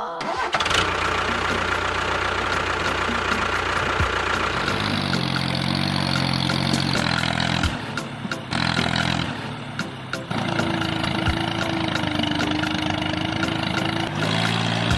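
An engine running steadily, mixed with background music whose low notes step up and down about a third of the way in and again near the end.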